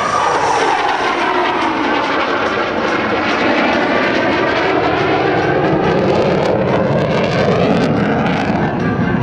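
Twin jet engines of an F-15E Strike Eagle flying past, loud and steady, with sweeping tones that fall in pitch as the jet goes by.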